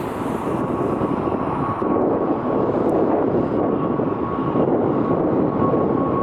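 Jet airliner engines: a steady roar with a thin, steady high whine above it.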